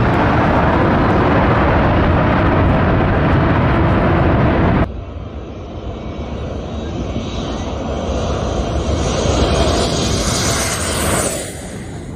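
Engines of an airliner coming in to land low overhead, a loud steady noise that cuts off suddenly about five seconds in. A second passing plane follows, its noise with a high whine swelling and then falling away near the end.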